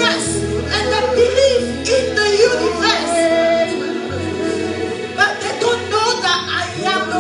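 Worship music: a band playing under sustained low bass notes, with a singing voice over it.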